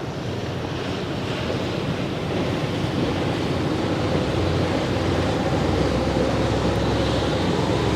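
Large car ferry arriving in harbour: a steady rush of wind and water with a low engine drone that grows louder from about halfway through as the ship comes closer.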